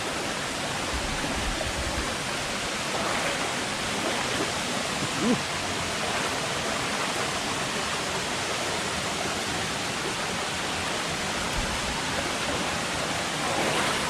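Waterfall water rushing, a steady even roar of falling and flowing water with no break. A brief short sound sits on top of it about five seconds in.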